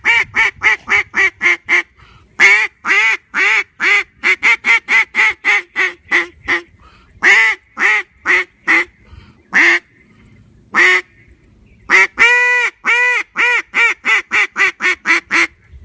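Fat Lady Game Calls D2D single-reed duck call blown in mallard-style quacks: several runs that start with long, loud quacks and taper into shorter, quicker, softer ones, at about three quacks a second, with two lone quacks near the middle.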